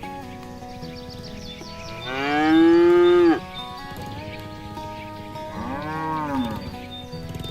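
Cow mooing twice: a loud, long moo that rises and then falls off about two seconds in, and a shorter, softer moo about six seconds in. Background music with held tones runs underneath.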